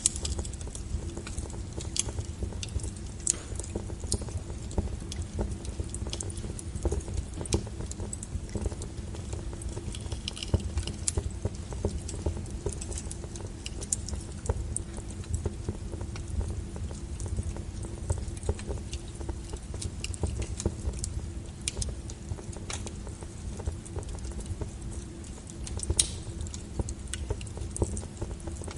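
Wood fire burning, with a steady low rumble and irregular sharp crackles and pops from the logs. A few pops stand out louder, about two, three, eleven and twenty-six seconds in.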